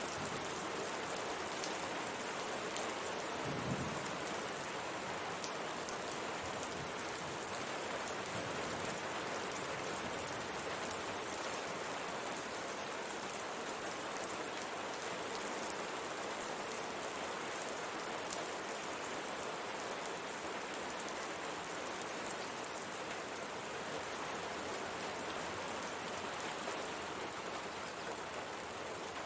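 Steady rain falling on window glass, a dense, even patter of drops. A brief low thump stands out about four seconds in.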